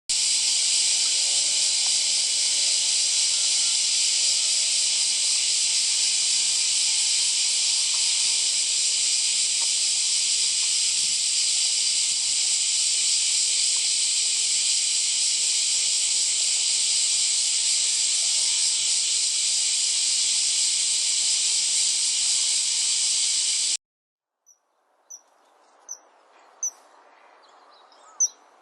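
Loud, steady, shrill insect chorus, most likely cicadas, that cuts off abruptly near the end. It gives way to faint, short, high bird chirps over quiet outdoor background.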